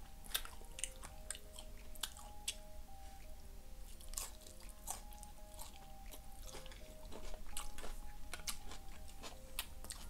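Close-up eating sounds: a person chewing a mouthful of burrito bowl, with wet mouth clicks and smacks and a fork working in an aluminium foil tray. Soft background music with a simple melody plays underneath.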